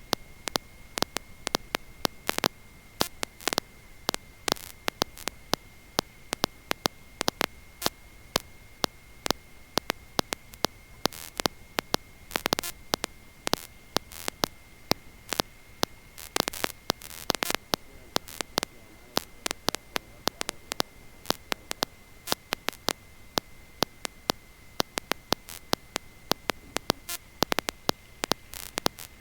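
Electrical static on the recording's audio line, the intercom feed rather than the engine: irregular crackling clicks over a faint hiss and a steady high-pitched whine.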